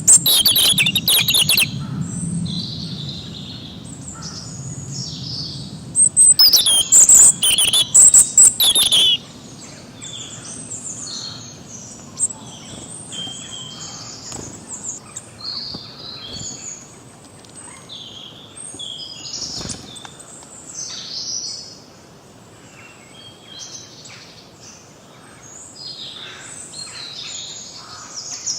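Several songbirds singing and chirping together, many short overlapping calls. The calls are loudest and densest at the very start and again for a few seconds about a quarter of the way in.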